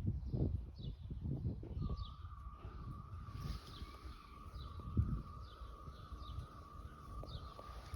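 A bird repeating short, falling chirps about twice a second. From about two seconds in, a steady wavering whistle-like tone runs under them, and uneven low rumbling with a few thumps is the loudest sound.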